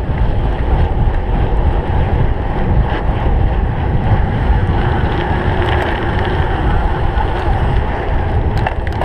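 Wind buffeting the microphone of a camera riding on a cyclocross bike at speed, over the steady rumble of the bike on rough ground, with a few sharp clicks near the end.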